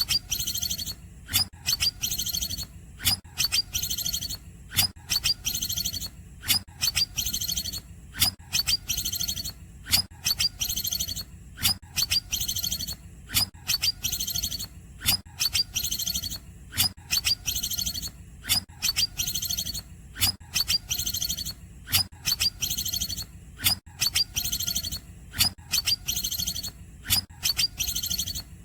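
Green leafbird (cucak ijo) singing a short, sharp, trilled phrase of the 'cungkokan' type, repeated evenly a little more than once a second.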